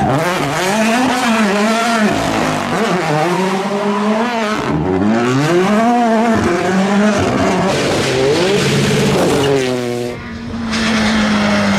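Rally car engine driven hard, its pitch climbing and dropping again and again through gear changes, over steady tyre and gravel noise. About ten seconds in the revs fall away briefly before it pulls on.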